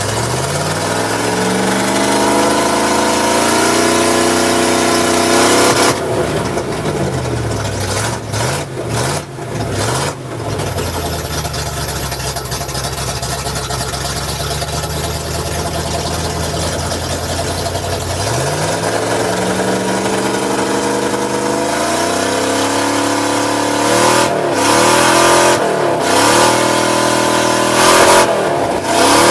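Oldsmobile 350 V8 running and being revved: it climbs and holds at higher revs for several seconds, drops back to a steady idle, then climbs again with a few quick throttle blips near the end.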